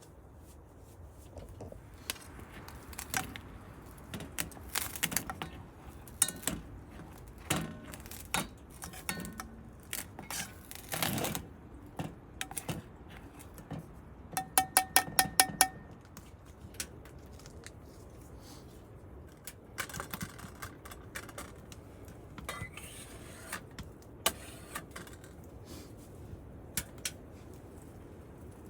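Metal pots and utensils clinking and clattering as camp cooking gets under way, with a quick run of about eight sharp, ringing taps about halfway through.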